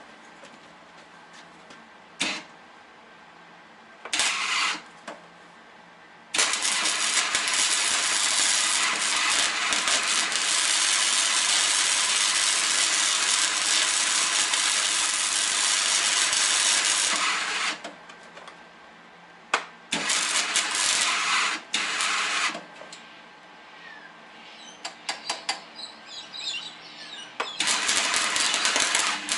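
Stick welder arc crackling and hissing in bursts: two short tacks, then one long run of about eleven seconds, then several shorter runs, with quiet gaps where the arc is broken.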